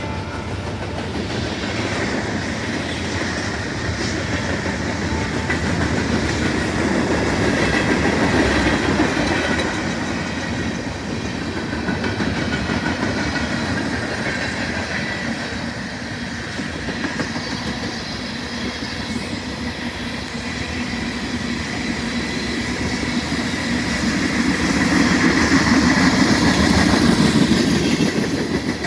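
Freight train rolling past, its wheels clacking over the rail joints, the sound swelling louder twice as the cars go by.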